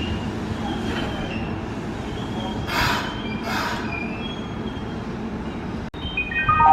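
Kintetsu train at the platform, its wheels squealing thinly over a steady rumble, with two short hisses of air about halfway through. After a brief cut near the end, an electronic chime tune starts.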